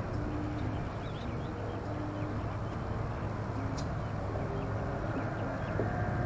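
Steady low outdoor rumble with faint bird chirps scattered through it.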